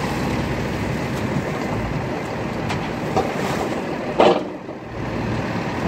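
Excavators working at a dig, their diesel engines running steadily with mechanical clanking. About four seconds in comes one loud clank or thud, followed by a brief lull.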